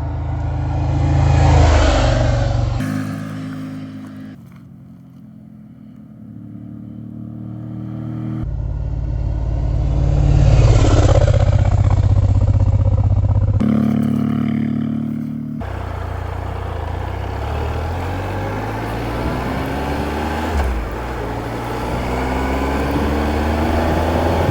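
Motorcycles riding past one at a time, each engine swelling and then fading as it goes by, twice. Then a motorcycle engine heard from on the bike, running steadily with wind noise and rising in pitch as it accelerates over the last several seconds.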